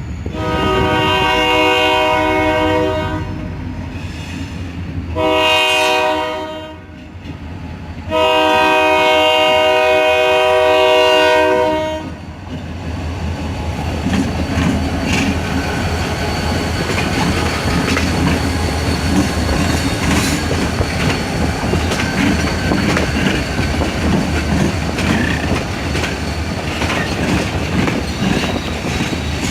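Freight locomotive air horn sounding a long blast, a short blast and a long blast. Then the train rolls past, its wheels clacking steadily over the rail joints with a faint wheel squeal.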